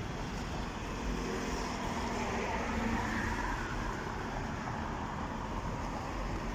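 Road traffic: a steady noise of passing cars, with an engine passing by a second or two in, heard over wind on the microphone.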